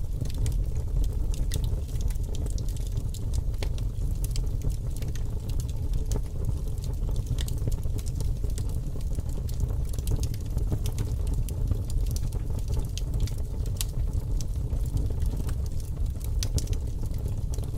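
Fire crackling: a steady low rumble with irregular sharp pops and snaps all through.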